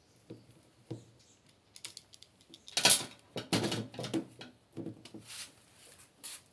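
Irregular knocks and clatters of hard objects being handled, the loudest pair about three seconds in.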